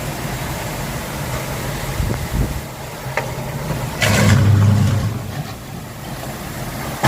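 A motor vehicle running with a steady low hum, surging louder for about a second around four seconds in.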